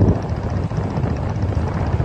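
Steady loud roar of a waterfall, a rumbling rush of water.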